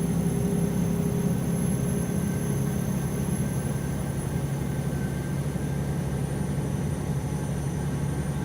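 Tractor-trailer's diesel engine and road noise heard from inside the cab while cruising: a steady low drone with a constant hum.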